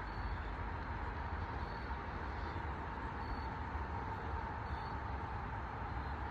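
Steady outdoor background: a low, traffic-like rumble and hiss with a faint steady hum, and short high chirps repeating about every second and a half.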